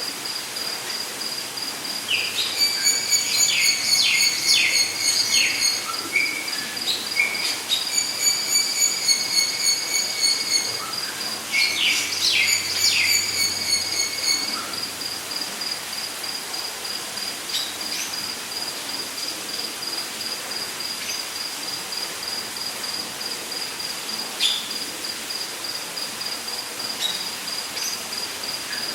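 Rainforest ambience: a steady, high, pulsing insect chirring runs throughout. Over it come bursts of bird calls, quick falling whistled strokes over a held note with high trills above, about two, eight and twelve seconds in.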